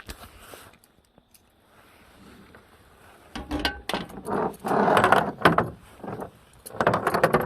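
Metal gear being handled: rattling, clattering and knocks in irregular bursts, heaviest in the second half.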